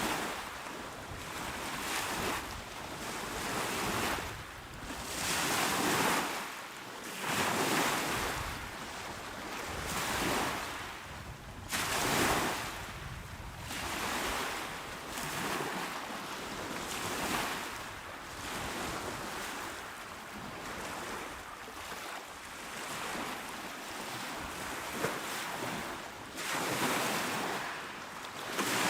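Calm sea waves breaking and washing onto a shore, swelling and fading every couple of seconds, with some wind on the microphone.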